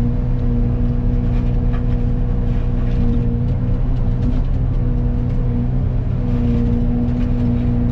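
Excavator running a Fecon hydraulic forestry mulcher head: a steady engine and hydraulic drone with a held tone that dips slightly in pitch now and then, and scattered faint cracks.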